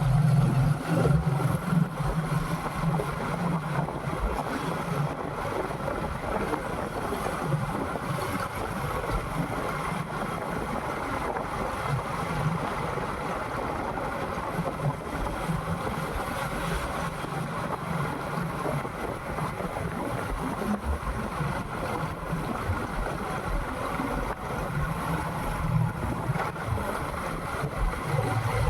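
Motorcycle engine running while riding, with wind rushing over the microphone. The engine's low hum is strongest at the start and again near the end.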